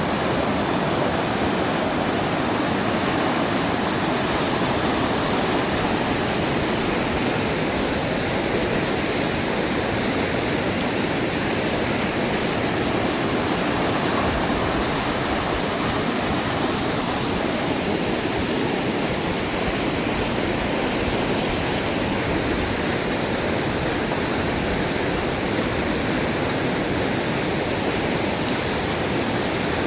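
Fast-rising river water rushing steadily, a dense unbroken noise of flowing water.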